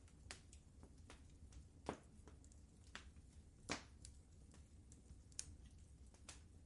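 Fireplace wood fire crackling: scattered sharp pops and snaps at irregular intervals over a faint, steady low rumble. The loudest pops come about two seconds in and near four seconds.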